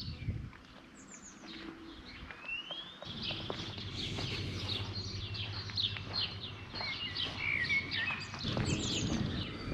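Small songbirds singing outdoors, with overlapping chirps, trills and quick falling runs of high notes. A steady low background hum comes up about three seconds in.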